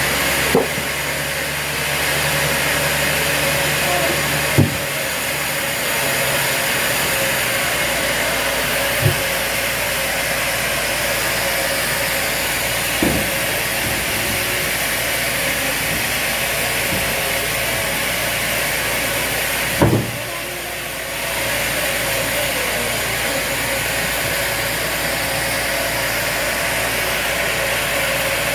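Sawmill machinery running steadily, a loud even mechanical noise with a faint hum, broken by five sharp knocks spaced several seconds apart.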